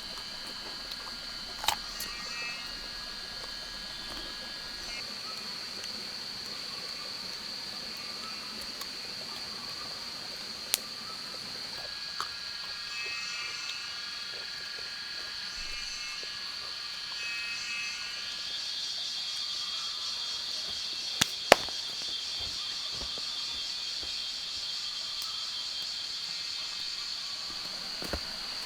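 Rainforest insect and frog chorus: a steady high-pitched insect drone with overlapping chirping calls that come and go. A few sharp clicks or knocks break in, the loudest a quick pair about two-thirds of the way through.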